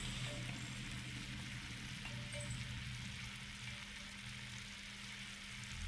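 Food sizzling on a camp grill: a steady, even hiss, with a low steady hum underneath.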